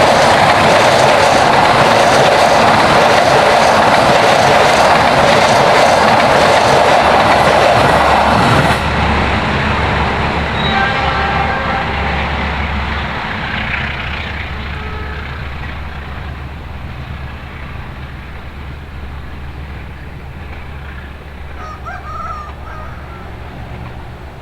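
A passenger train passing close by at speed, a loud steady rush of wheels on rail with clickety-clack. About nine seconds in, the sound drops sharply and then fades away as the train recedes, with a brief pitched sound a couple of seconds after the drop.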